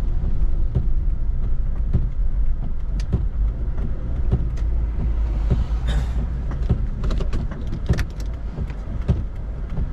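A vehicle driving through snow: a steady low rumble with frequent short knocks and clunks, and a brief hiss about halfway.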